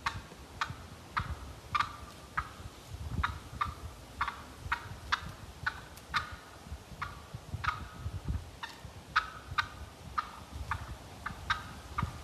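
Wild turkeys giving a run of short, sharp clucks, about two a second and uneven in loudness, the excited calling that hunters call cutting.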